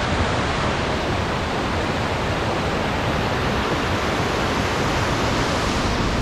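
Waterfall in winter, water pouring steadily over the falls as an even, unbroken rush of noise.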